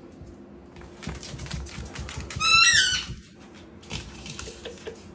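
A pet parrot gives one short, high squawk about halfway through, over soft low knocking and rustling.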